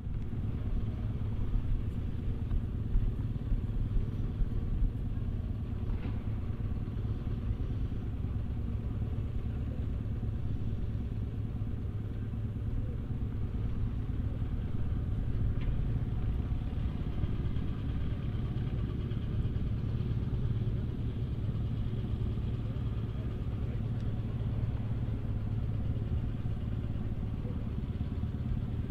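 Volvo BM 2654 tractor's diesel engine running steadily, pulling a five-furrow plough.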